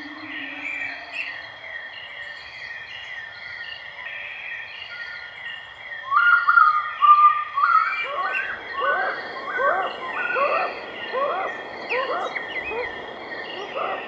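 Birds calling: a steady run of short, repeated high chirps. About six seconds in, louder and lower calls join and repeat roughly one and a half times a second, each one a short upward sweep.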